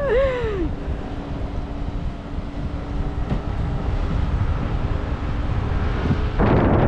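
Wind buffeting the microphone with a steady low hum underneath. At the very start a short, falling cry of a voice. Near the end a louder gust of wind.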